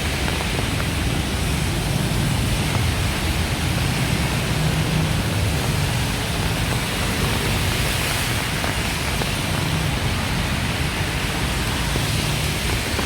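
Steady hiss of rain falling on a wet city street, with a low rumble underneath.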